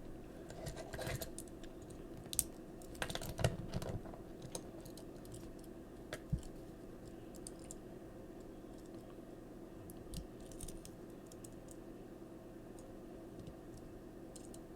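Small plastic Transformers toy parts clicking and tapping as a figure is handled and transformed, the clicks bunched in the first few seconds with a few more later, over a faint steady low hum.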